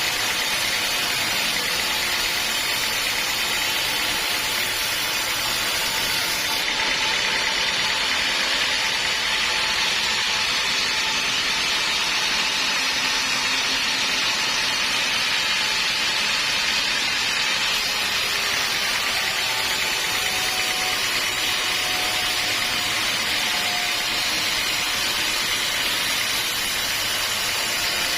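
Sawmill saw running steadily with a loud, even noise, its character shifting slightly about seven seconds in and again near eighteen seconds.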